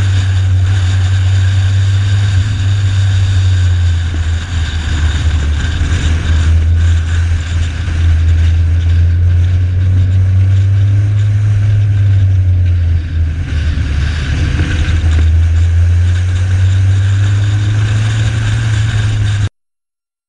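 Onboard sound of a Honda Integra Type R (DC2) lapping a circuit: its engine running hard under a low rumble of wind on the car-mounted camera, dipping briefly a few times. The sound cuts off suddenly near the end.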